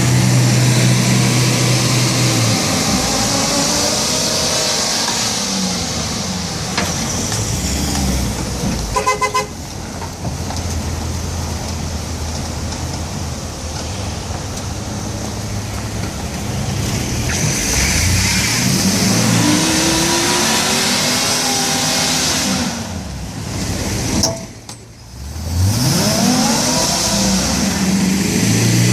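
UPS delivery truck's engine revving up and falling back again and again as the truck tries to drive out of a snowbank it is stuck in, over a steady hiss. A brief rapid beeping comes about nine seconds in.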